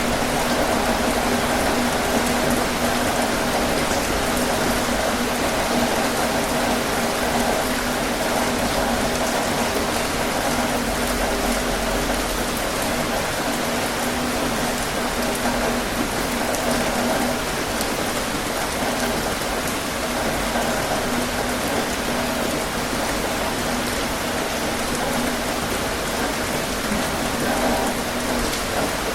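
Heavy rain drumming steadily on a tin roof, a dense even patter of drops.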